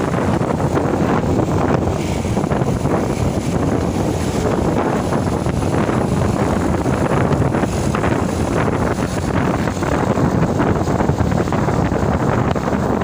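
A loaded truck on the move: steady engine and road noise with wind buffeting the microphone.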